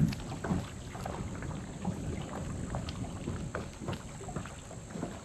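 Wind gusting over the microphone with water lapping around a small boat, and scattered light knocks.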